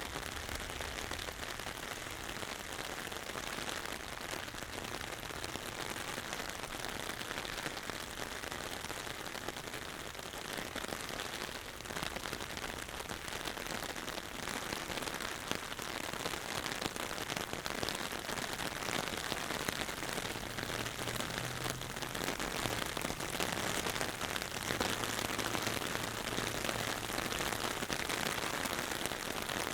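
Steady rain falling, with a dense haze of small drop hits. A faint low hum comes in about two-thirds of the way through and fades again.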